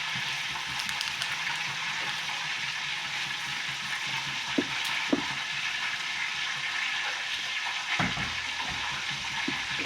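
Hot cooking oil sizzling steadily in a pot as it heats up, ready for frying. A few light knocks come about halfway through, and a dull thump near the end.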